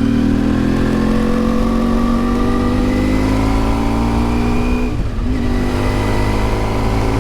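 Yamaha XTZ 750 Super Ténéré's parallel-twin engine pulling through a gear, its pitch rising slowly. About five seconds in there is a brief drop as it shifts up, then it climbs again.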